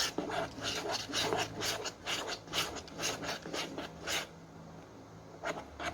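Spoon scraping and stirring clear-glue slime on a small plate: a quick run of short scratchy strokes for about four seconds, then a couple more near the end.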